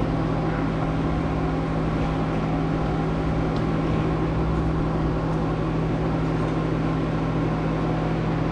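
Steady machine hum with a strong low tone, unchanging throughout.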